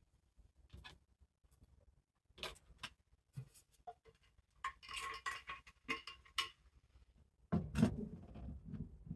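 Scattered light clicks, taps and rustles of small objects being handled in a small room, with a louder bump and rustle about seven and a half seconds in.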